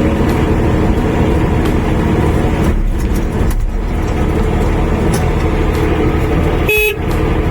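Engine of a JH15 1.5-ton mini excavator running steadily while the controls work the boom and arm. A short high beep sounds near the end.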